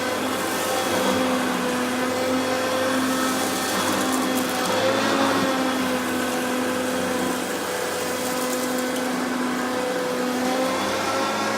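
Hoover Concept vacuum cleaner running steadily on an area rug, its motor tone wavering slightly in pitch.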